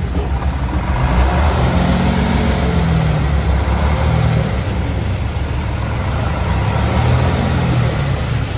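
Heavy diesel earth-moving machinery running under load, the engine's pitch rising and falling a few times over a steady rumble.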